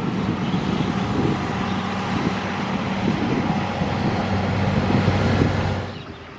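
Diesel-hauled express train passing at speed: a loud, steady rush with a low engine hum. The sound drops away sharply near the end as the train goes by.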